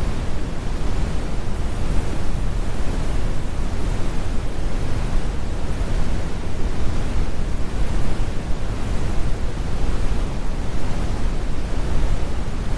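Steady synthetic brown noise: a deep, even rumble that is heaviest in the bass and has its harsh high end removed.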